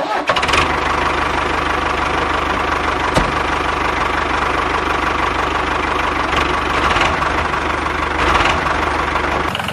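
A motor running steadily, with one sharp click about three seconds in.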